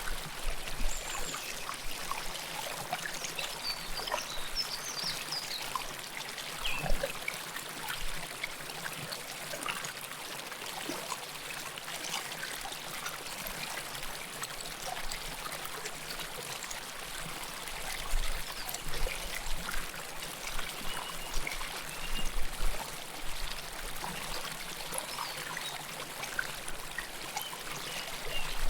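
River water flowing close up: a steady rush of water with many small splashes and gurgles trickling over it.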